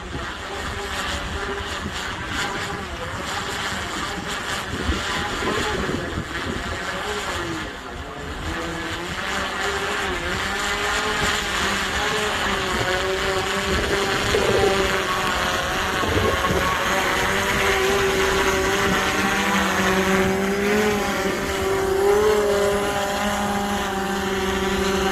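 Autel Robotics Dragonfish drone's propellers whining as it comes in to land in high wind, their pitch wavering up and down, then growing louder and steadier in the second half. Wind buffets the microphone throughout.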